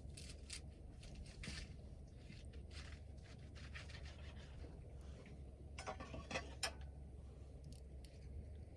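Wood fire crackling: scattered small pops and snaps, with a quick cluster of louder snaps about six seconds in, over a faint steady low hum.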